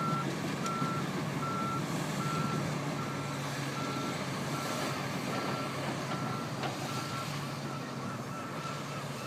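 Backup alarm on a crane beeping steadily at one pitch, a little under two beeps a second, over the low steady running of its diesel engine.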